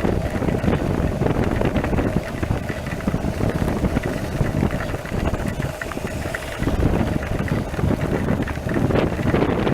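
Wind buffeting the microphone on a moving motorcycle, over the steady drone of a Honda NC700X's parallel-twin engine at cruising speed.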